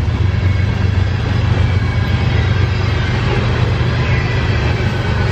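CSX freight train's tank cars and covered hopper rolling past close by, a loud, steady rumble of steel wheels on rail.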